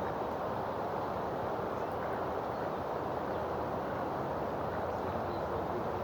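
Steady rushing background noise with a few faint, short high chirps.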